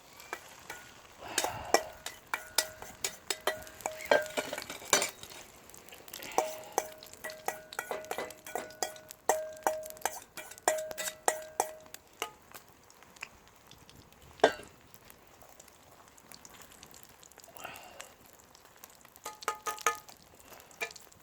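A metal utensil stirring and clinking against a metal bowl, a quick run of ringing clicks for about twelve seconds, as beaten eggs and green onion are mixed for frying. After a pause there is one knock, and a few more ringing clinks near the end.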